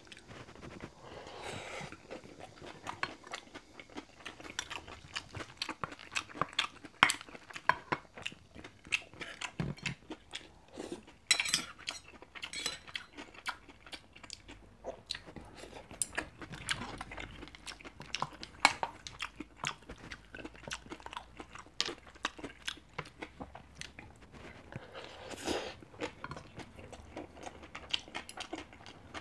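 Close-miked chewing and biting of beef bibimbap: wet mouth smacks and crunches, with the odd click of a wooden spoon and steel chopsticks against the bowl.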